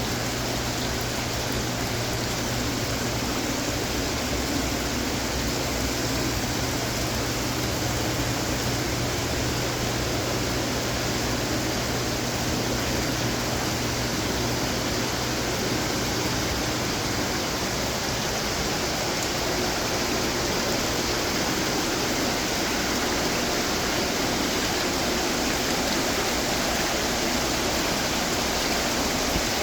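Running garden water fountains: a steady wash of splashing, trickling water. A low hum sits underneath and stops a little past halfway.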